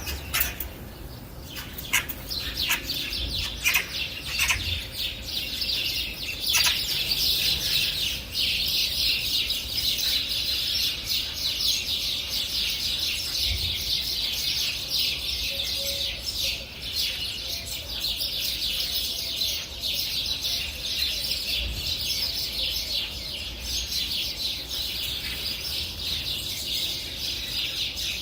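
Many birds chirping at once: a few separate chirps at first, thickening about six seconds in into a dense, continuous chatter.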